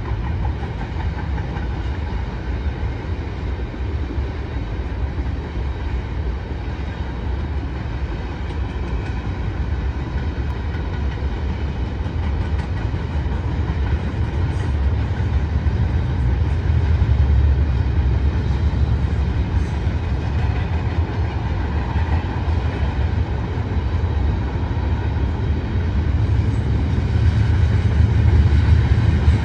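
Freight train rolling past: a steady rumble of railcars on the rails, growing a little louder in the second half.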